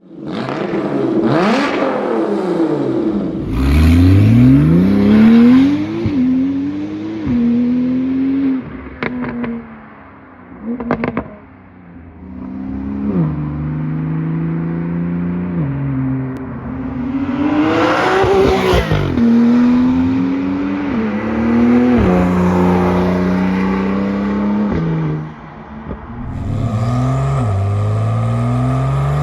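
Porsche 911 Turbo S twin-turbo flat-six engine accelerating hard through the gears. Its pitch climbs and then drops at each upshift, several times over. Around ten seconds in there is a lull with a few sharp cracks, before it pulls again.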